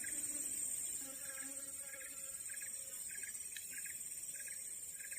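Tropical forest insect chorus: a steady high-pitched drone with short chirps repeating irregularly about once a second.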